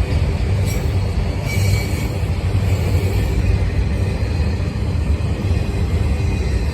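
Freight train of auto rack cars rolling past: a steady, loud low rumble of wheels and cars on the rails.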